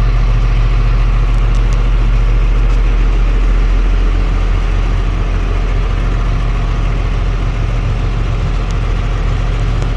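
Caterpillar C7 inline-six diesel in a 2004 Freightliner M2 box truck idling with a steady low hum.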